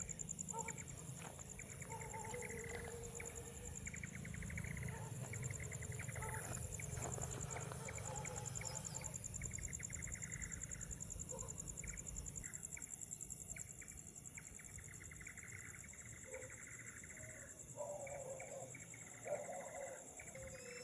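Night-time chorus of insects and other wild animal calls: a steady high-pitched insect trill throughout, with repeated fast-pulsing chirps and some lower wavering calls.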